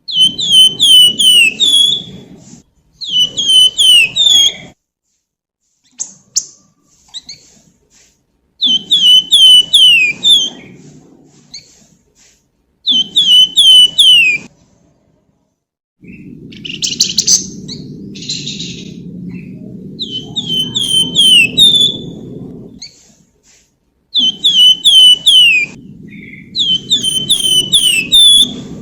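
A flamboyan songbird (the Indonesian bird-keepers' name) singing in short bouts of four or five quick whistled notes, each sliding downward, repeated every few seconds. There is a harsher chattering call midway. A low rumble runs under most of the bouts.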